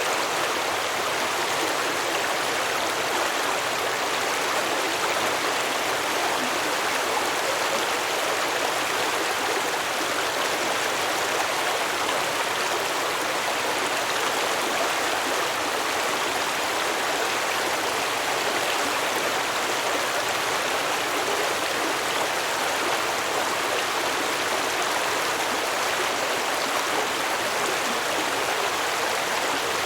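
A shallow stream running and babbling over rocks in a steady, even rush of water.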